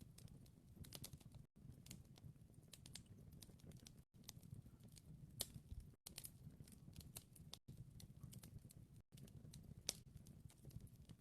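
Wood fire crackling quietly, with irregular small snaps and pops over a low, steady rumble.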